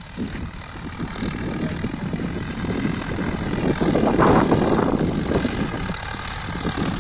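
Swaraj 855 tractor's three-cylinder diesel engine running steadily while pulling a 16-inch Lemken plough, the engine not straining under the load. It grows louder about four seconds in, then eases.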